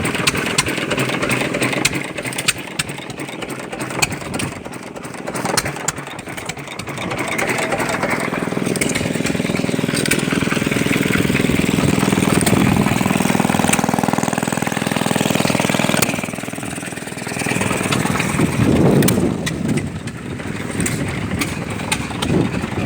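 Old John Deere hit-and-miss stationary engine running, with irregular firing beats at first. It settles into a steadier, louder running hum in the middle, and there is a brief rise and fall in pitch near the end.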